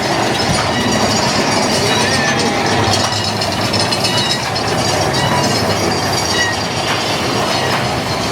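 Mine-train roller coaster cars running along the track, a steady loud rumble and rattle of wheels on rails, heard from on board.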